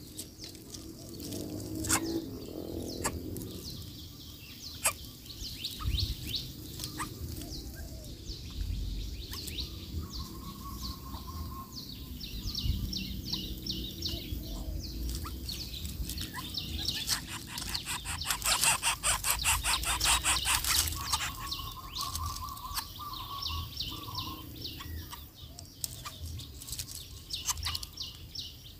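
Birds chirping and calling with scattered short chirps, and a fast ticking trill for a few seconds about two-thirds of the way through.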